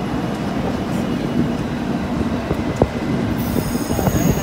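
White Pass & Yukon Route passenger train rolling along the rails on a curve, heard from a car: a steady rumble with scattered clanks and knocks, one sharper knock about three seconds in.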